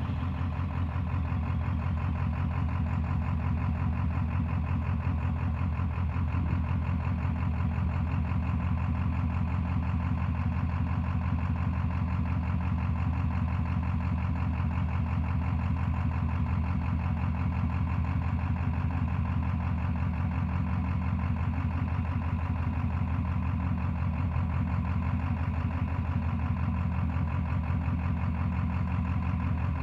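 Ford 7.3 Power Stroke V8 turbo-diesel idling steadily, its firing pulses even and unchanging.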